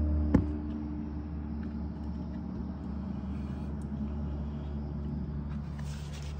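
A sharp click just after the start, then a steady low hum.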